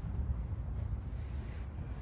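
Wind buffeting the microphone outdoors: a steady low rumble that rises and falls.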